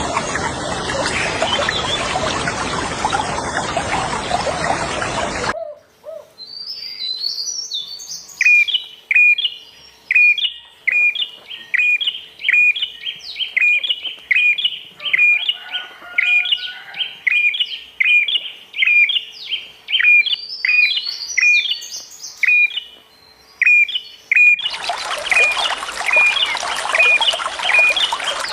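Running water hiss that cuts off abruptly about five seconds in, leaving a bird repeating a short, sharp call note over and over, a little faster than one a second, with some higher twittering between. Near the end the water sound cuts back in under the continuing calls.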